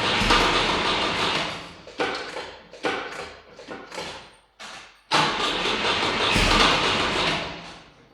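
Volvo 145's engine being cranked and catching on fuel sprayed into its Weber carburettor intakes. It runs briefly, then dies away in a series of coughs, and is cranked and catches again about five seconds in before fading out. It is a hard start, the engine not yet drawing fuel on its own after standing.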